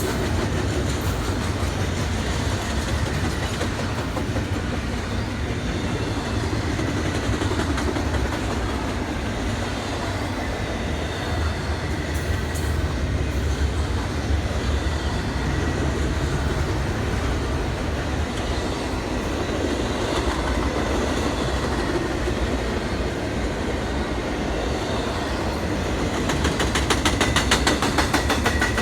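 A train rolling past: a steady rumble of the rail cars with the clickety-clack of wheels over rail joints. The clicking turns quick and dense near the end, and a faint steady high tone runs through it.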